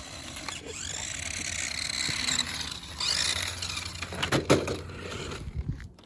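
Battery-powered remote-control rally car driving, its electric motor whining and rising in pitch as it speeds up about half a second in. Tyre noise runs under the whine, and a few sharp knocks come around four and a half seconds in.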